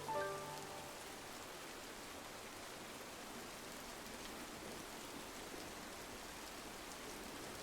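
Steady rain on a window, an even hiss. In the first second a few soft sustained music notes ring out and stop.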